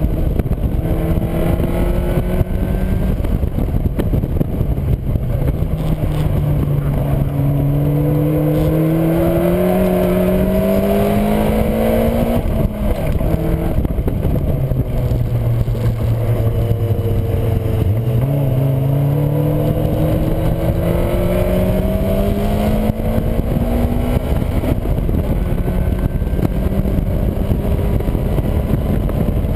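Caterham Seven's 1.6-litre four-cylinder engine heard from its open cockpit at track speed. The revs climb, drop sharply about twelve seconds in, sag low for a few seconds, then climb again, with wind and road rush throughout.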